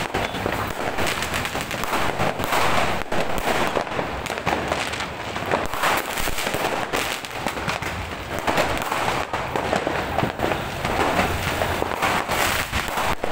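Fireworks and firecrackers going off in many places at once: a dense, unbroken crackle of bangs and pops.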